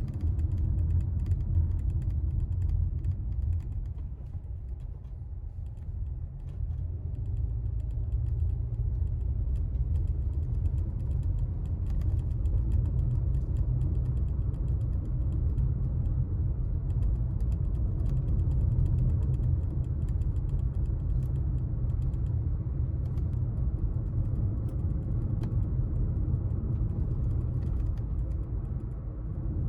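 Low, steady rumble of a moving car heard from inside the cabin, with many faint scattered clicks and creaks over it, easing briefly a few seconds in.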